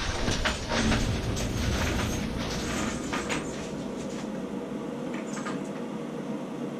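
Rummaging: small clicks, clatter and rustling from parts and containers being handled, busiest for the first three seconds or so and then quieter.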